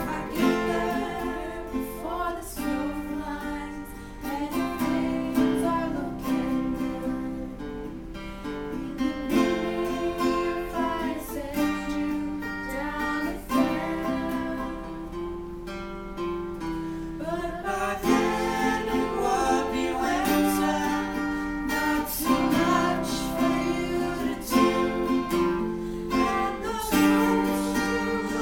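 Music: an acoustic guitar strummed in a folk-song accompaniment, with a melody line over the chords.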